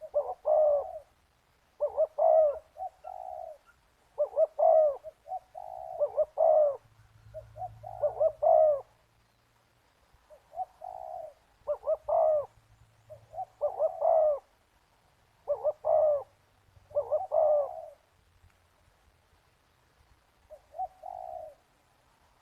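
Spotted dove cooing: about ten repeated cooing phrases, roughly one every two seconds, with a short pause near the end.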